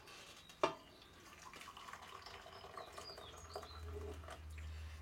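Lukewarm water being poured from a cup into a bowl of flour and yeast, faint and trickling, after a single knock about half a second in. Faint bird chirps come in around the middle.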